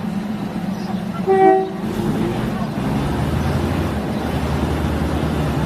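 Diesel railcar train running with a steady rumble, and one short toot of the train horn about a second and a half in. Just after the toot, the low engine drone grows louder and holds steady.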